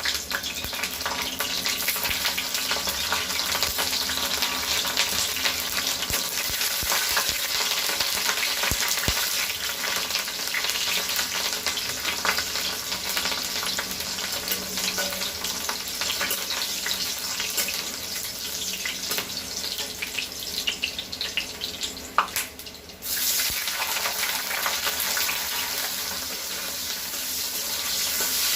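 Food sizzling steadily in hot oil in a pan while being stirred, with small clicks and scrapes throughout. About two-thirds of the way through there is a sharp knock, the sizzle drops for under a second, and then it comes back.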